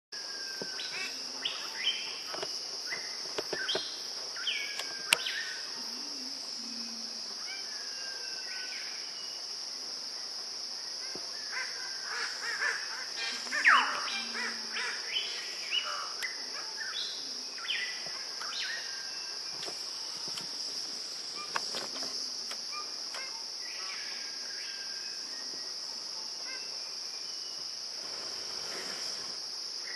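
Red birds-of-paradise and other forest birds calling in short, separate calls over a steady high-pitched insect drone. The loudest calls come about 2 and 5 seconds in, and a strong sweeping call comes about halfway through.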